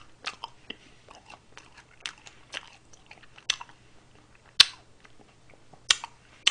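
A person chewing a mouthful of ice cream cake close to the microphone: a run of small wet mouth clicks and lip smacks, with two sharper smacks about two-thirds of the way in and near the end.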